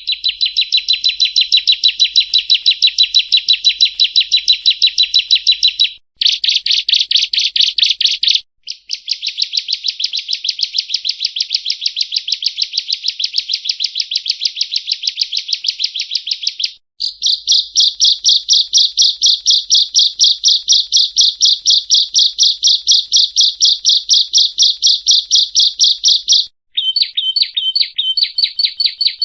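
Prenjak rowo (yellow-bellied prinia) calling in long, rapid trills of sharp repeated notes, about six a second, broken by brief pauses.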